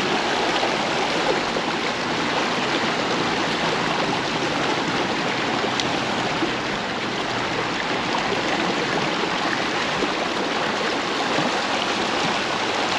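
Creek water running over rocks: a steady rushing flow.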